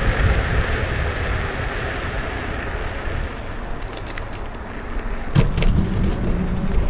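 Ride noise from a Kukirin G2 electric scooter under way: a steady low rumble of wind and road, with no engine note. In the second half come several sharp clicks and rattles, the loudest about five and a half seconds in.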